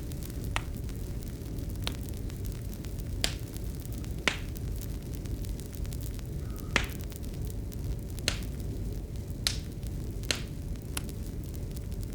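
Wood fire crackling: sharp pops at irregular moments, about nine of them, over a steady low rumble of the burning fire.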